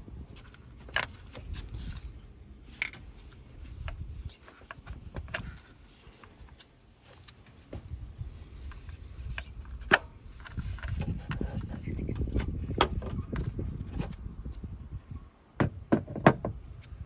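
Scattered clicks, knocks and light clatter of ignition coils and their plastic connector plugs being unclipped and pulled out of an engine, over a low rumbling handling noise. The sharpest knock comes about ten seconds in.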